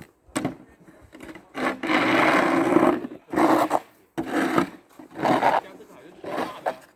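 Snow shovel scraping in repeated strokes about a second apart, the longest lasting about a second, starting about two seconds in.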